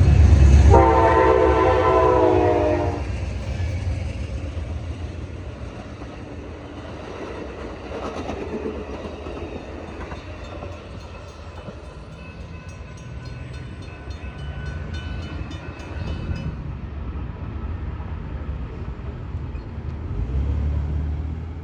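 A passing train's diesel locomotive sounds a multi-tone chime horn for about two seconds over its loud engine rumble. Its cars then roll past with a steady rumble and light rattling, which swells again near the end.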